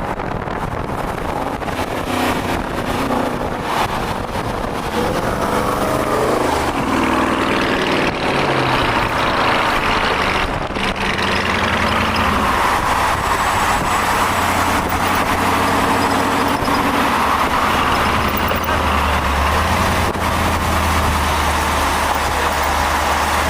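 A road vehicle driving: a low engine hum that shifts in pitch several times over steady road and tyre noise.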